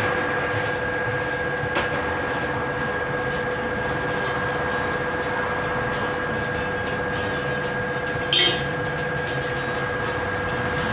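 Steady mechanical running noise with a constant whine, and a short sharp noise about eight seconds in.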